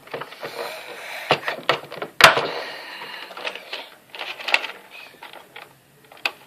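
A plastic toy radio-controlled car being handled: irregular clicks, knocks and rattles, with one sharp click about two seconds in.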